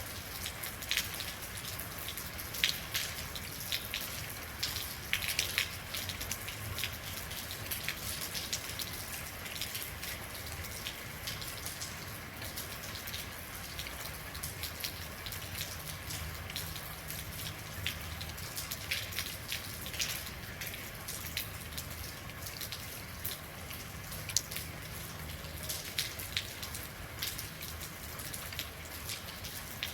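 Real rain falling steadily: a constant hiss with many individual drops ticking irregularly on a hard surface.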